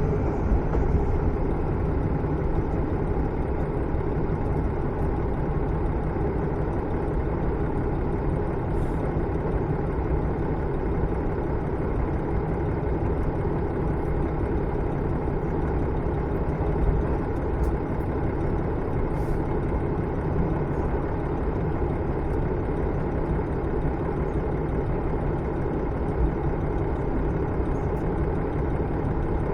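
Running sound inside a KiHa 110-series diesel railcar (car KiHa 112-3) in motion: a steady rumble of the diesel engine, wheels and rails, with a few faint clicks.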